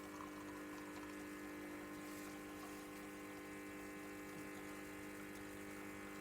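Home espresso machine's pump running with a steady hum while it pulls a double shot of espresso.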